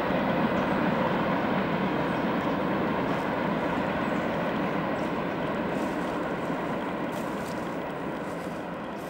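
Freight train rolling away on its rails: the steady rumble and clatter of the wheels of the last empty boxcars, slowly fading as the end of the train moves off.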